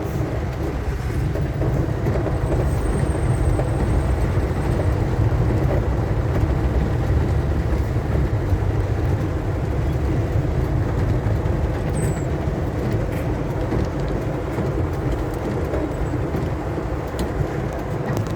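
Steady low rumble of a car driving, with a few faint scattered ticks.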